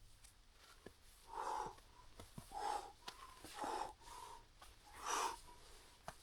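A person breathing hard from exertion while climbing a snowy slope: a run of loud, wheezy breaths about once a second, with a few faint clicks between them.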